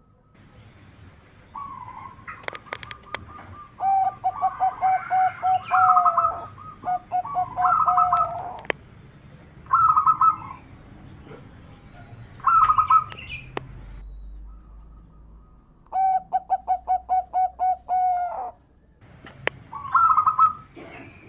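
Zebra doves (perkutut) cooing. Several phrases of quick, staccato notes, about ten in a run, come again and again with short pauses. Two birds overlap at different pitches. A few sharp clicks fall between the phrases.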